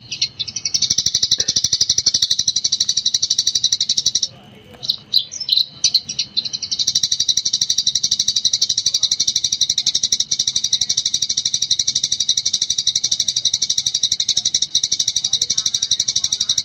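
Eurasian tree sparrow chattering in a fast, nonstop run of high-pitched chirps, the continuous 'gecor' song used as a training recording. A few seconds in it breaks into scattered single chirps, then resumes the unbroken chatter.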